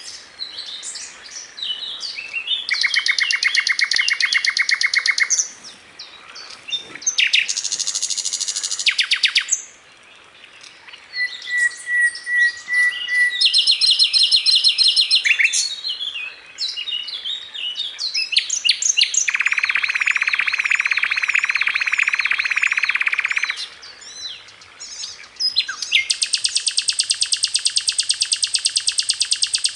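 Sikatan londo, a flycatcher, singing a run of varied phrases: fast rattling trills, a short thin whistle, and a long, steady, rapid rattle near the end, with brief pauses between phrases.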